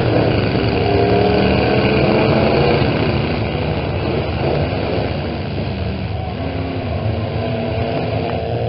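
Engines of several small pickup trucks running and revving together in a demolition derby heat, their pitches rising and falling against each other.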